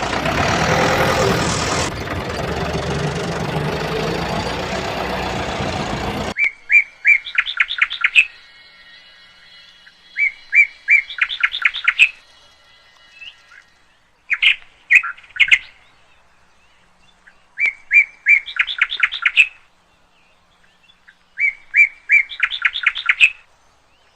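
A bird singing: repeated phrases of rapid high chirps, about five phrases a few seconds apart. Before them, a loud, even rushing noise fills roughly the first six seconds and cuts off suddenly.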